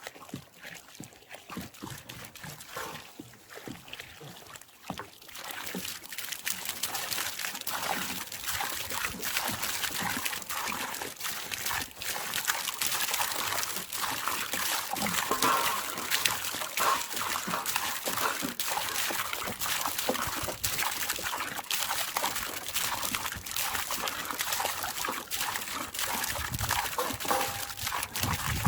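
Water trickling onto a campfire, with a dense crackling hiss that gets louder about five seconds in.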